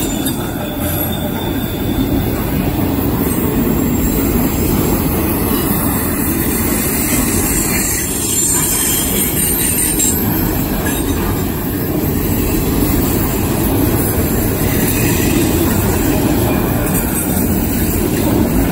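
Loaded autorack freight cars rolling past close by, a steady loud rumble of steel wheels on the rails.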